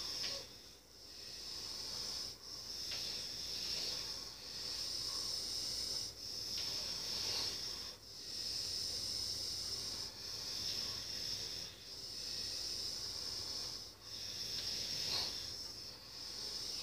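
A steady high-pitched hiss that dips briefly about every two seconds.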